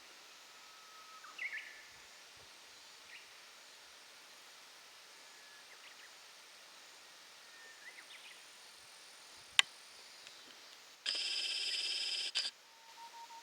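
Faint bird chirps over a quiet outdoor background, then a single sharp click. Near the end comes a loud, harsh call lasting about a second and a half, held at one pitch.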